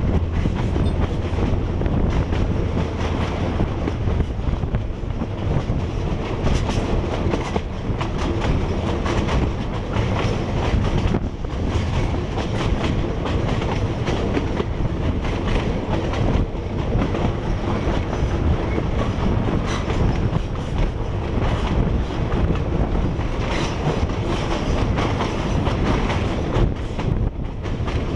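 Train wheels clattering over rail joints with a continuous low rumble, heard from aboard a moving carriage on the Maeklong line, whose old, poorly maintained track gives an irregular clickety-clack.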